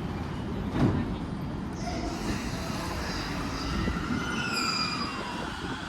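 E231 series electric train pulling away from the platform: its inverter and traction motors give a whine that shifts in pitch as it speeds up, over the rumble of the train. There is a thump about a second in.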